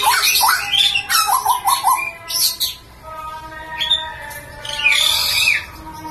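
Butcherbird (jagal Papua) calling loudly: a quick run of harsh, chattering call notes, then a steady held tone with a few more calls over it in the second half.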